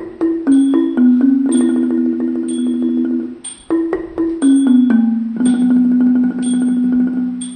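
Thai classical instrumental music: struck notes of ranat xylophones over a held melody line. It plays in phrases, with a brief dip about three and a half seconds in.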